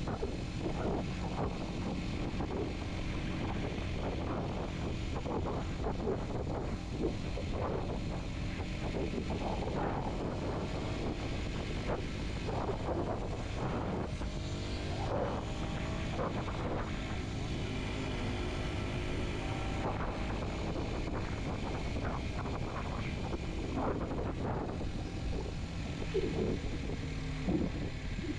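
Kawasaki Z125's small single-cylinder engine running under way as the motorcycle climbs a pass road, its pitch rising and falling with changes in revs, most noticeably around the middle.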